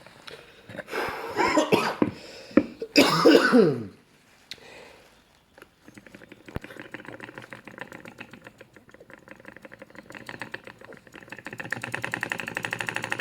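Homemade single-cylinder model steam engine running on blown human breath, ticking in a fast, even rhythm. Loud blowing and cough-like breath sounds come from about one to four seconds in. The beat then dies away, returns, and grows louder near the end.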